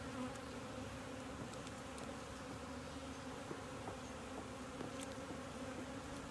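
A honeybee colony buzzing steadily in an opened hive, a dense even hum with a few faint clicks over it.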